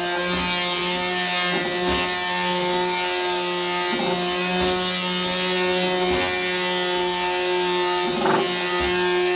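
Electric mouse sander running with 220-grit paper over a walnut board: a steady motor hum with uneven scratchy rubbing as the pad is moved across the wood, held lightly with no pressure.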